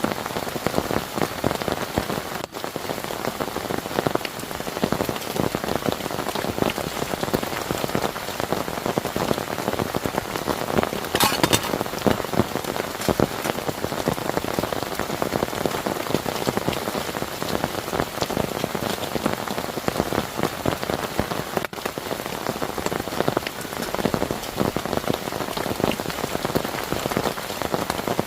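Heavy rain falling steadily, a dense patter of drops hitting a surface, with a brief louder rush about eleven seconds in.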